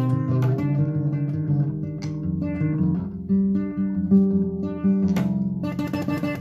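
Acoustic guitar played as an instrumental melody: a run of changing plucked notes, with a few strummed chords about five seconds in.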